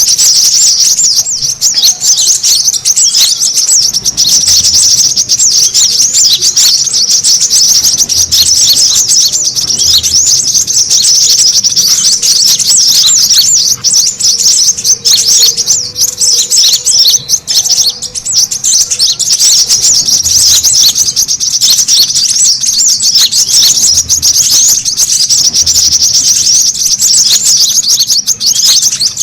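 Brown-throated sunbird giving a busy, agitated chatter: rapid, unbroken high-pitched twittering.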